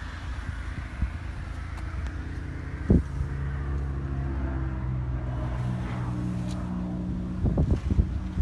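A car engine idling steadily with a low, even hum. A sharp click comes about three seconds in, and a few knocks come near the end.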